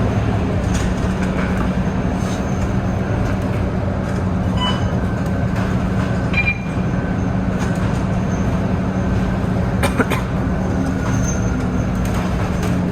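Interior of a Scania K230UB single-deck city bus on the move: the engine and drivetrain give a steady low drone. Short squeaks and sharp rattles or clicks come from the body, with a cluster of clicks near the end.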